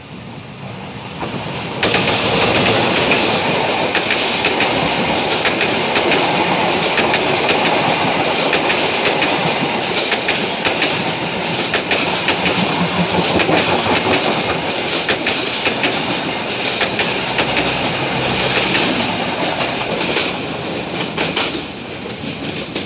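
A diesel-locomotive-hauled passenger train passes close by. The locomotive comes in loudly about two seconds in, followed by a long run of coaches with wheels clacking over the rail joints, and the sound drops away near the end as the train recedes.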